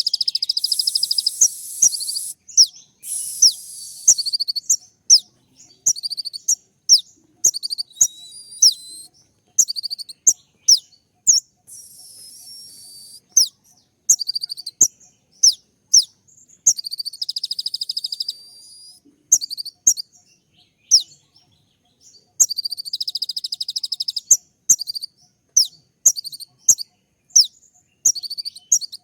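Kolibri ninja sunbird singing: a long run of short, sharp, very high chirps, each sliding downward, broken by several stretches of fast buzzy trills.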